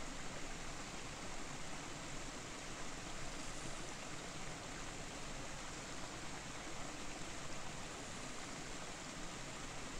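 Steady rushing of a waterfall and its stream, an even hiss that does not change.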